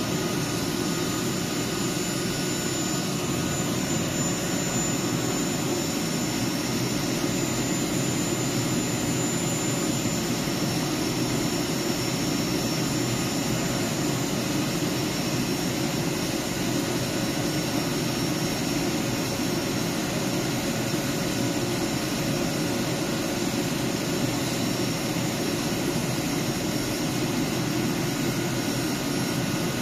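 Steady hum and whir of a Deutsche Bahn ICE high-speed train standing at the platform, its onboard machinery running, with a few faint steady whining tones over the rush.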